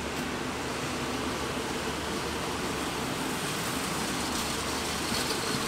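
Moving passenger train heard from inside the carriage: a steady rumble and hiss of the running train, growing slowly louder as it gathers speed.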